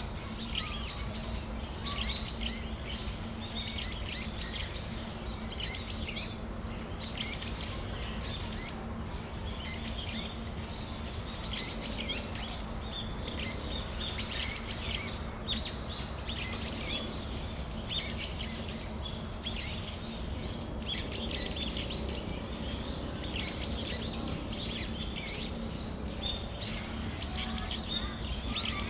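Brown-eared bulbuls calling: many short, high-pitched calls overlapping one another without a break. A steady low hum runs underneath.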